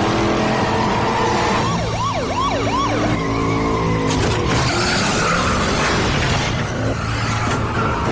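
Car engines revving hard through gear changes, with tyre squeal and noise over the top, and three quick rising-and-falling wails about two seconds in.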